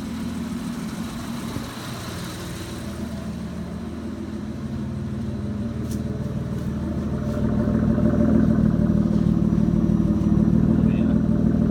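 Mitsubishi 3000GT's 3.0-litre V6 running at a steady high idle with a low rumble, growing louder about two-thirds of the way through. The owner puts the high idle down to a leaking oil pan gasket.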